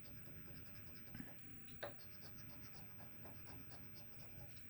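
Faint scratching on a scratch-off lottery ticket, in short quick strokes with a sharper tick about two seconds in.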